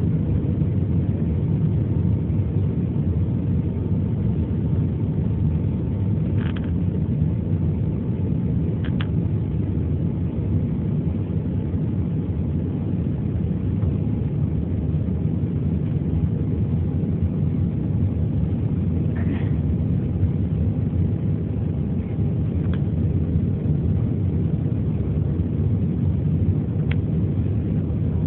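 Steady low rumble of an Airbus A321's engines and airflow heard inside the passenger cabin, with a faint steady whine and a few light clicks.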